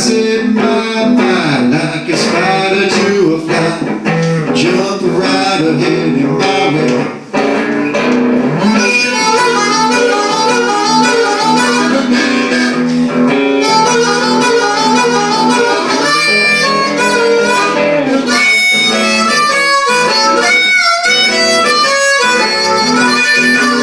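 Blues band instrumental break: an electric guitar plays bending lead lines, then a blues harmonica takes the solo from about eight seconds in, over guitar backing.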